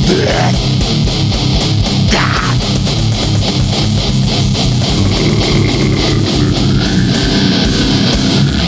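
Heavy band music: distorted electric guitar and bass playing a chugging riff over fast, even drum hits, loud and steady throughout.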